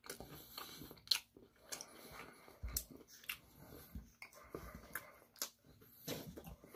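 A person biting and chewing crispy Korean fried chicken close to the microphone: faint, irregular crunches and wet mouth clicks.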